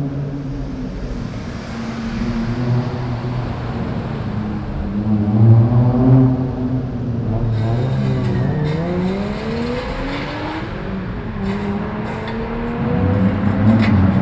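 Modified car engines running with loud exhausts. A louder swell about five seconds in, then an engine note climbing steadily in pitch over about three seconds as a car accelerates.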